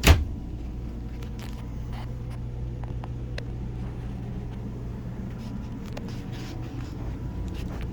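A single sharp knock right at the start, then a steady low hum with a few faint clicks.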